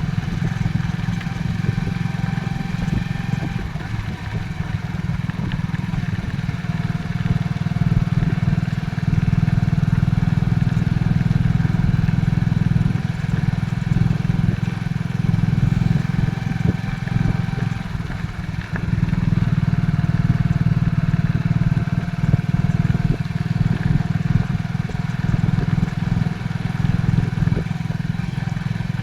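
Motorcycle riding along with its engine running steadily under road and wind noise, easing off briefly a few seconds in and again past the middle.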